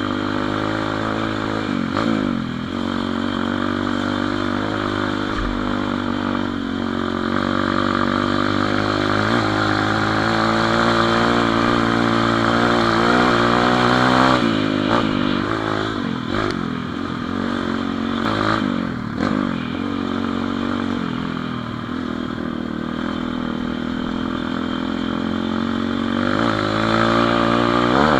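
Pit bike engine running under way, its pitch climbing and falling as the throttle is opened and closed, with a sharp drop about halfway through and a climb again near the end.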